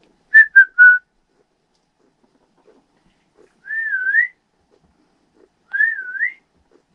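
A person whistling to a pet budgie: three short clear notes, then two separate wavering whistles that dip and then rise in pitch.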